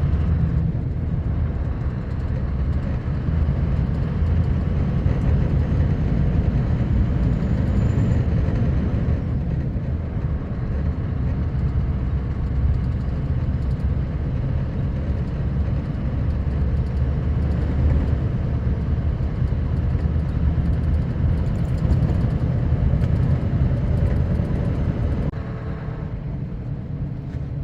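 Sanding truck driving on a partly icy road, heard from inside the cab: a steady low engine drone with the road noise of its studded tyres. The noise drops in level a couple of seconds before the end.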